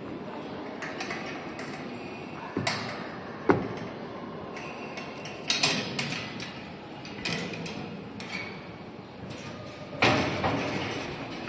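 Scattered knocks and bangs, four louder than the rest, each ringing on briefly in a large echoing hall, over a steady background hubbub.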